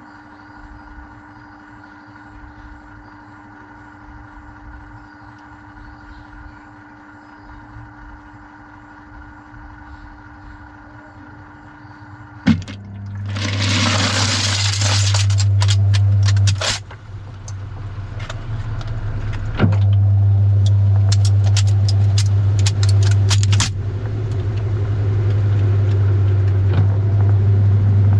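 Washing machine running with keys inside the drum: a steady quiet hum for about twelve seconds. Then a click, and the machine starts up with a loud low drone and a rushing hiss lasting a few seconds. The keys clatter and tick against the drum, and the drone grows loud again near the middle and runs on.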